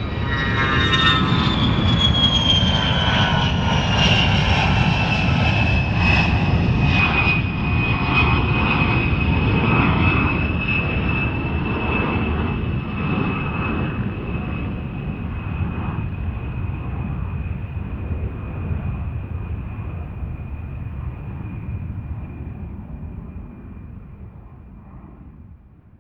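Aircraft engine sound: a heavy rumble with a high whine that falls in pitch over the first several seconds, then holds steady as the whole sound slowly fades away.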